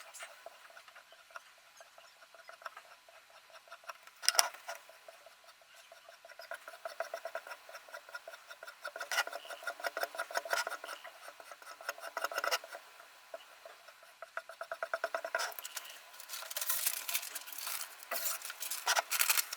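Sharpening stone on a Ruixin Pro RX-008 guided sharpener rubbing along a steel kitchen knife blade in rapid, repeated scraping strokes, heavier in stretches. There is a sharp metallic clink about four seconds in.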